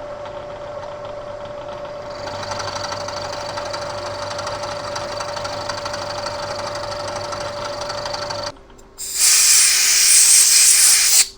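Bridgeport milling machine running an end mill on a climb-milling finish pass, a steady machine hum with cutting noise building from about two seconds in. The machine stops about eight and a half seconds in, followed by a loud hiss lasting about two seconds.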